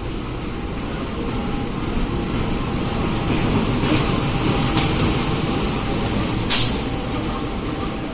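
Train at a station platform: a steady low rumble with short hisses, the loudest and sharpest about six and a half seconds in.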